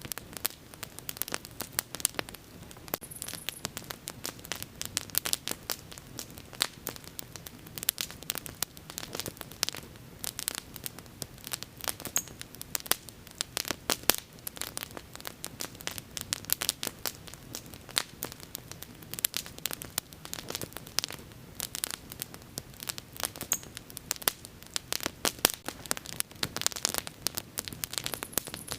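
Wood bonfire crackling: a dense, irregular stream of sharp pops and snaps over a faint steady low rush of the flames.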